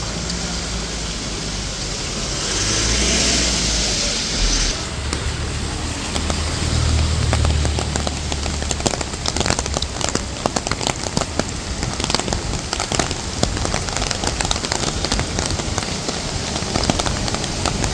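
Rain falling on a wet street. A vehicle goes by in the first half: a swell of tyre hiss, then a low engine rumble. From about halfway, rain sounds as dense, sharp drop ticks close to the microphone.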